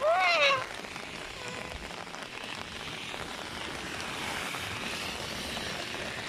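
Steady rain falling onto the standing water of a flooded street. A short call that rises and falls in pitch sounds at the very start.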